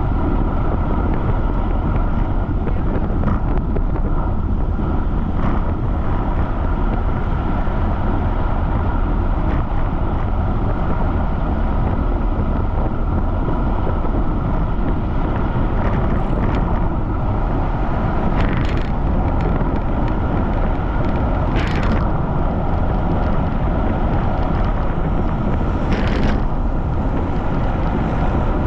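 Strong wind buffeting the microphone of a camera riding on a fast-moving bicycle: a steady, loud rumbling noise, with a few brief higher hisses in the second half.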